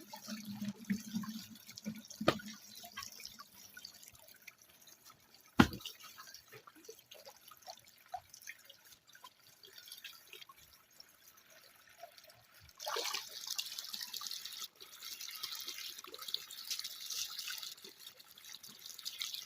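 Water dripping and trickling among river rocks at a water-collection point, with two sharp knocks, the second louder. A steady hiss sets in about two-thirds of the way through.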